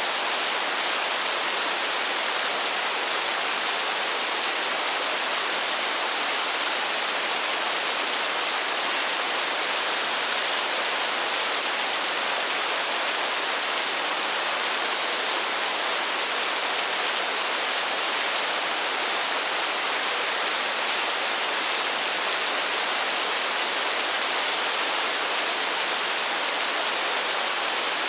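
Steady heavy rain: an even, unbroken hiss of falling water with no single drops standing out.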